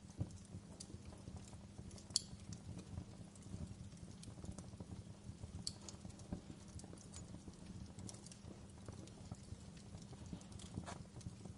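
Wood fire burning in a fireplace: a low steady rumble of flame with irregular crackles and sharp pops, one louder pop about two seconds in.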